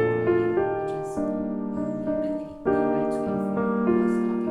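Calm solo piano background music, with a brief pause about two and a half seconds in before the next chord.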